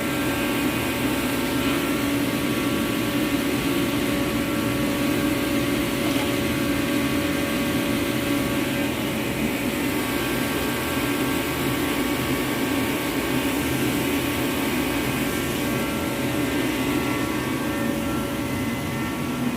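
Reddy Heater Pro 150 kerosene forced-air torpedo heater running steadily, its fan and burner making an even rush with a steady hum and several higher whining tones. The heater is firing and staying lit now that its nozzle has been replaced.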